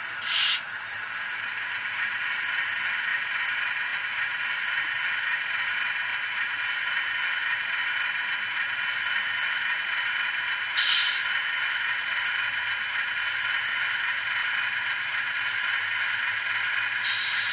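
Sound decoder of an N-scale Tier 4 GEVO diesel locomotive model playing through its small speaker: the diesel engine idling steadily, with short air hisses about half a second in and again at about 11 seconds. Near the end a longer air hiss begins, the locomotive's brake release sound.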